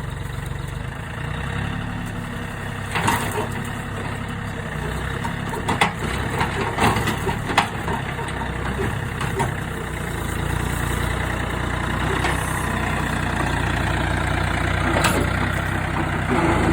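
John Deere tractor's diesel engine running steadily, with a few sharp clanks and knocks over it through the middle and once more near the end.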